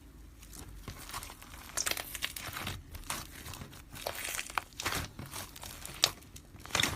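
Slime being pressed and squished by hand, giving a run of irregular crackling, crinkly clicks and small pops.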